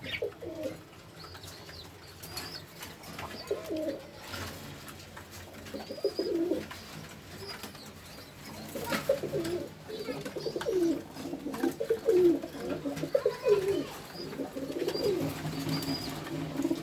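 Domestic pigeons cooing: low warbling coos repeating, more often in the second half, with a few faint high chirps among them.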